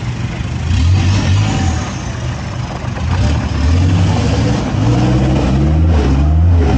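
Off-road 4x4 engine revving: a low engine drone with the pitch climbing in a series of short rises during the second half, as the throttle is opened again and again.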